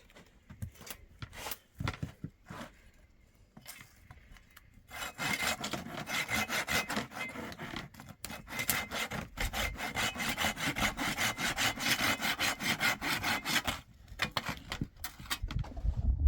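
A few scattered knocks, then a long run of quick, even rasping strokes starting about five seconds in and stopping near the end.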